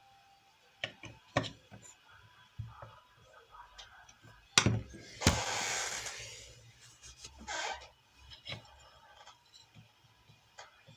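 Tools and parts handled on a workbench: scattered clicks and knocks, with a sharp knock about halfway in followed by about a second of scraping or rubbing, and a shorter scrape a little later.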